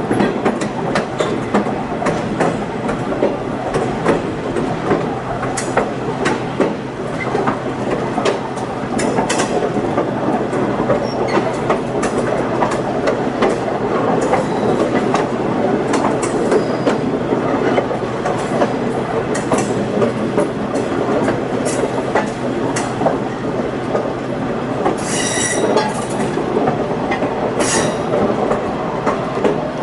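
Scenic passenger train rolling along the track: a steady rumble with frequent wheel clicks, and two short high-pitched wheel squeals near the end.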